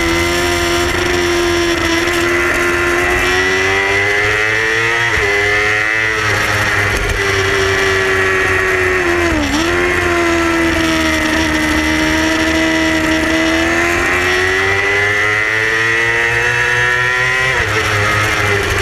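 Yamaha R6 sport bike's 600 cc inline-four engine running hard at high revs, racing. Its pitch climbs and falls with throttle and gear changes, with sharp dips in pitch about five seconds in, about nine and a half seconds in, and near the end.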